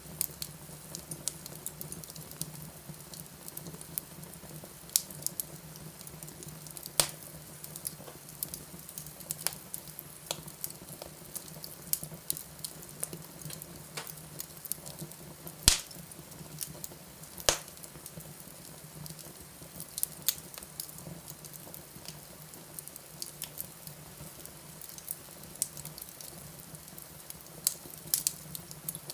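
Wood fire in a fireplace crackling, with irregular sharp pops, the loudest a little past halfway, over a low steady hum.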